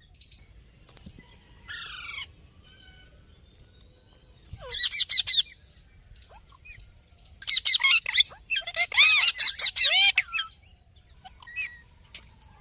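Pet green parrots squawking in harsh, loud bouts of rapid calls: a faint call about two seconds in, a burst around five seconds in, then two longer bouts in the second half.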